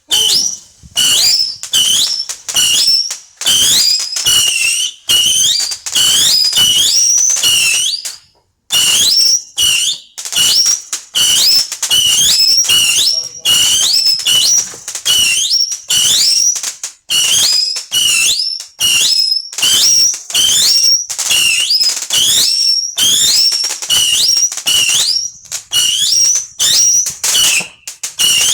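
A whistling firework barrage going off: rapid shots, each with a short shrill whistle rising in pitch, several a second, with a brief pause about eight seconds in.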